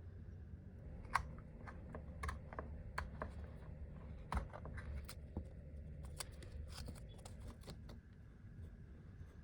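Irregular small clicks and taps of hand work on small parts, with a cluster of quicker taps near the middle, over a steady low hum.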